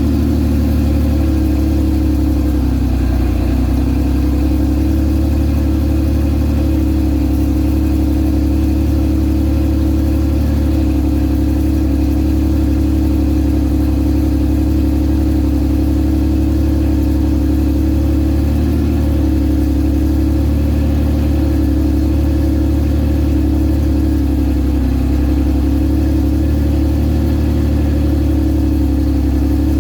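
Porsche 911 SC's air-cooled flat-six idling steadily during its warm-up from a cold start, with a slight waver in speed a few seconds in and again near the end.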